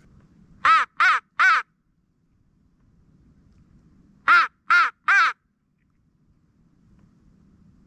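Crow cawing: two bursts of three loud, quick caws, the second burst about three seconds after the first.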